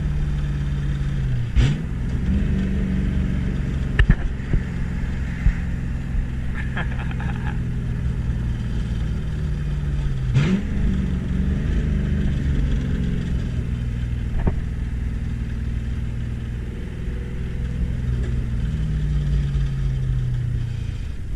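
Ford Mustang GT's 4.6-litre two-valve V8 running through open pipes with the mufflers deleted while the car is driven. The engine note climbs twice under acceleration, sags and picks up again near the end, with a few sharp knocks along the way.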